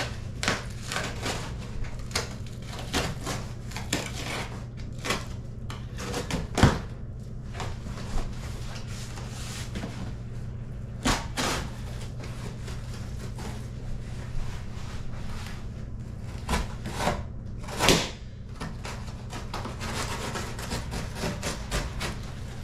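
Cardboard shipping box being cut open along its sides with a knife and handled: repeated scraping and rustling strokes with a few sharp knocks, over a steady low hum.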